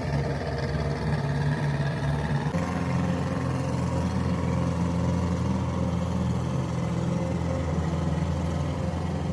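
Tractor engine running steadily under load, its low note shifting slightly about two and a half seconds in.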